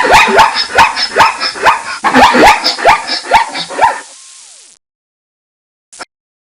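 Zebra calling: a rapid series of short, barking yelps, each falling in pitch, lasting about four seconds.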